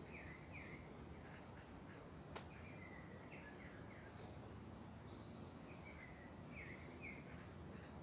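A songbird sings short phrases of downward-slurred notes, with the same phrase returning about five seconds later, over a faint, steady rush of river water. A single sharp click comes about two and a half seconds in.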